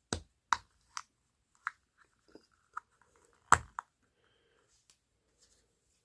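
Hard plastic toy parts clicking and knocking as a thick Playmobil tyre is worked onto its wheel and hubcap, with a series of sharp clicks and the loudest snap about three and a half seconds in.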